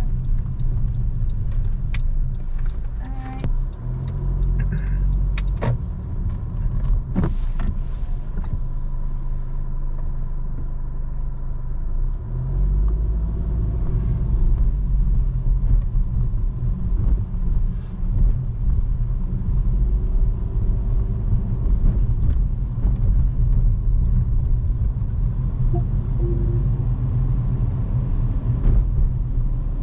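Car driving on city streets: a steady low rumble of engine and tyres that swells about twelve seconds in, with a few short clicks and knocks.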